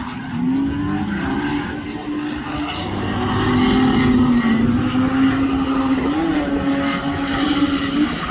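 Drift car's engine at varying revs. The pitch rises and falls in the first couple of seconds, then holds fairly steady and grows louder for several seconds.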